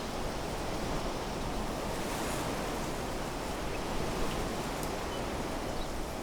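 Wind blowing steadily through trees, a continuous rushing of leaves and branches, with a couple of faint high chirps near the middle.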